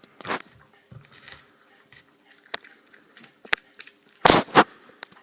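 Dog gnawing on an ox bone: scattered clicks and cracks of teeth on bone, with two loud crunches close together about four seconds in.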